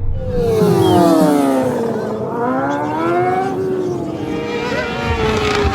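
Racing motorcycle engines at high revs passing close by. One bike's pitch drops steeply as it goes past, then another engine climbs in pitch as it accelerates, and a lower engine note runs on near the end.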